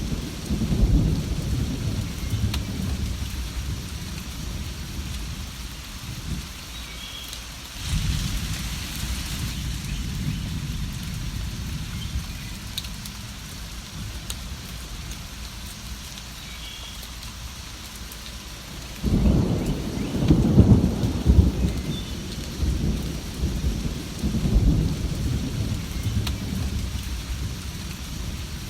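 Steady rain with rolls of thunder. Low rumbles come at the start and again about eight seconds in, the loudest roll arrives about two-thirds of the way through, and a softer one follows a few seconds later.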